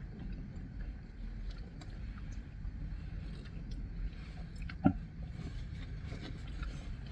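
People chewing and biting into crusty toasted baguette, with small crunches over a low steady rumble. One sharp knock just before five seconds in is the loudest sound.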